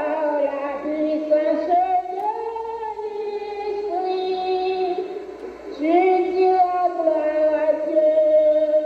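A group of voices singing together unaccompanied, with long held notes that move between pitches.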